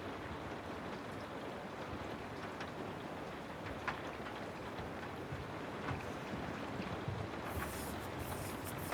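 Steady rain with scattered faint drop ticks; near the end, a few short bursts of high hiss come in over it.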